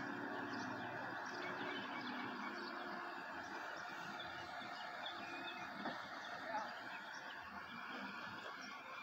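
Scattered bird chirps over a steady background hiss, with a faint low hum that fades out about three seconds in.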